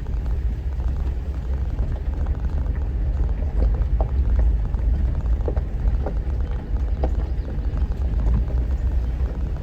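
Off-road vehicle driving slowly along a rough dirt trail: a steady low engine and road rumble, with a few short creaks from about a third of the way in.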